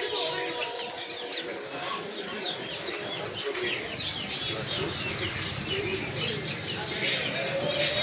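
A chorus of many small caged birds chirping, a dense chatter of short, quick high chirps that overlap throughout.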